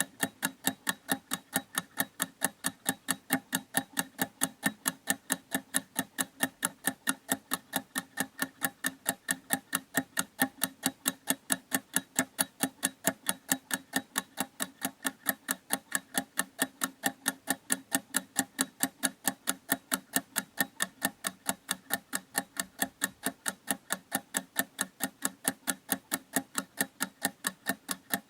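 Clock ticking steadily: sharp, evenly spaced ticks, a few a second, with no change in pace.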